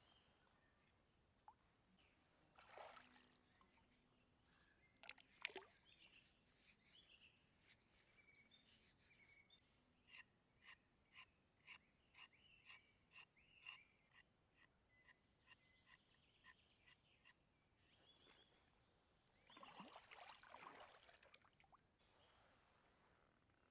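Faint outdoor ambience with distant bird calls. In the middle comes a run of about fourteen evenly spaced clicks, roughly two a second, and near the end a brief rustling or pouring noise.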